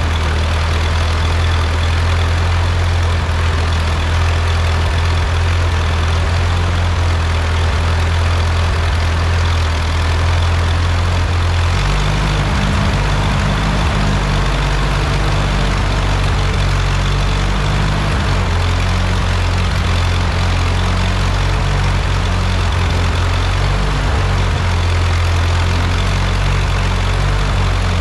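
Rebuilt Ford 8N tractor's four-cylinder flathead engine running steadily, its note changing about twelve seconds in.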